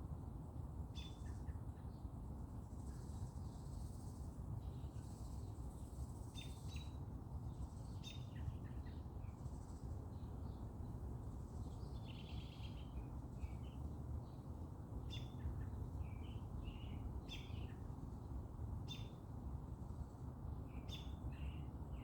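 Several small birds chirping and calling in short, scattered notes, over a steady low rumble of background noise.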